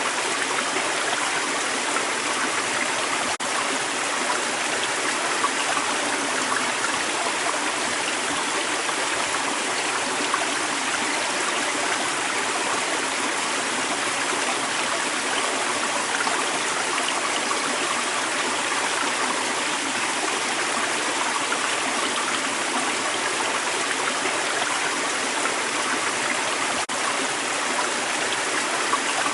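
Creek water flowing steadily, a continuous rushing babble.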